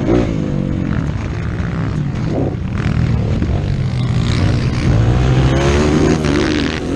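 Dirt bike engine revving up and down under race throttle, over a steady low rumble, with the pitch swinging most near the end.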